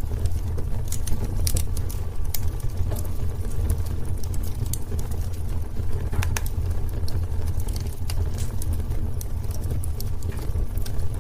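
Wood fire in a fireplace burning with a steady low rumble and frequent irregular crackles and pops.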